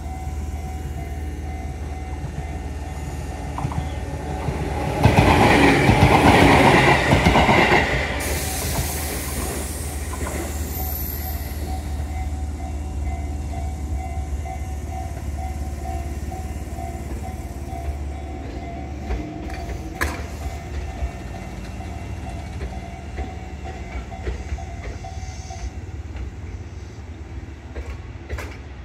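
Tobu electric commuter train rolling slowly past, with a steady low rumble and a steady hum. A much louder burst of noise comes about five seconds in and lasts some three seconds, followed by a high hiss, and a sharp click comes about twenty seconds in.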